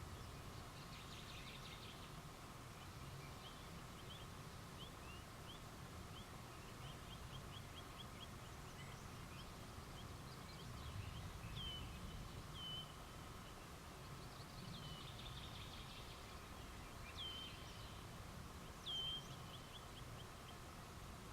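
Faint night-time wildlife calls: series of short, high chirps, then several clearer calls that swoop down in pitch and level off, the clearest about halfway through and again near the end, over a steady background hum.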